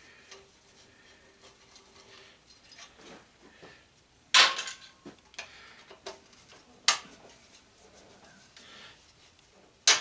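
Sharp metallic clanks and clinks of hand tools and loose metal parts being handled while a sander is dismantled for scrap. The loudest clank comes about four seconds in, with shorter ones about a second later, near seven seconds and at the very end.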